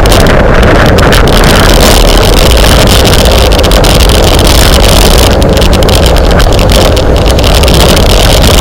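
Wind rushing over the microphone of a camera carried on a moving bicycle: a loud, steady roar with no breaks.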